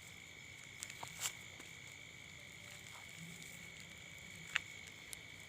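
Night chorus of frogs and insects at the water's edge: a steady high-pitched trilling, broken by a few short sharp clicks about a second in and near the end.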